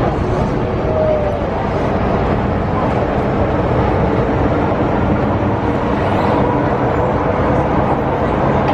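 MTR Tsuen Wan Line electric multiple-unit train running between stations in the underground tunnel, a loud steady rumble of wheels and motors heard from inside the carriage.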